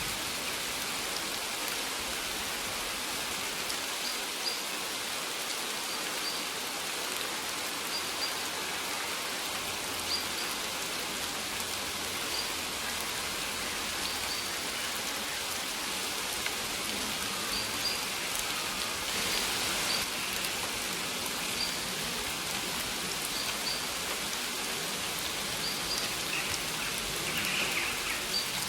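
Steady rain falling and pattering on surfaces, with faint short high bird chirps about every two seconds.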